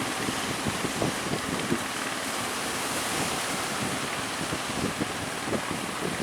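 Strong wind buffeting the microphone over rough sea, with waves splashing and irregular low thumps as a boat heads out through them.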